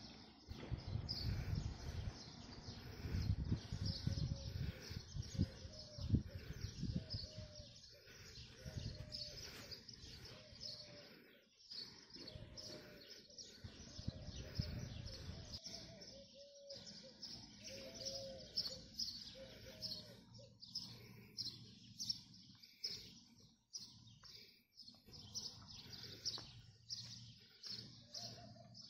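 Many small birds chirping and twittering without pause, with a lower, repeated short call among them through the middle stretch. A low rumble sits under the birdsong in the first several seconds, then fades.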